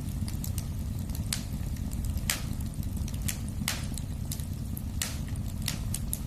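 Wood fire burning in a fireplace: a steady low rumble of flames with several sharp crackles and pops, roughly one a second.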